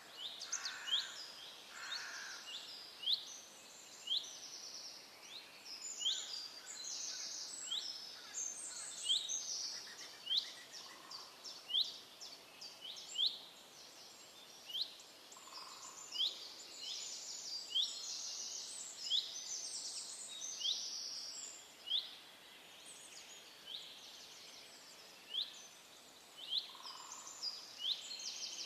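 Several birds calling and singing together: many short, sharp chirps repeated every second or so, mixed with fast high trills and a few soft, lower notes.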